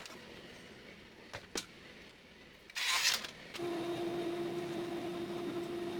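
A brief rustle, then a small electric motor starts about three and a half seconds in and runs with a steady hum.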